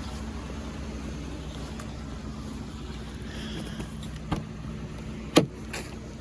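Car engine idling steadily after a cold start, warming up. A click sounds a little after four seconds, and a louder sharp knock about five and a half seconds in.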